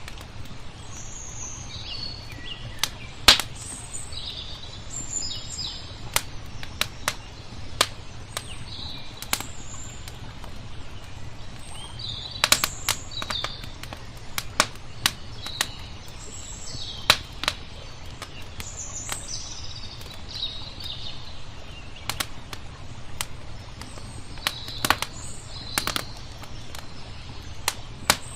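Wood fire crackling with irregular sharp pops, while small birds chirp in short calls over a steady low rumble.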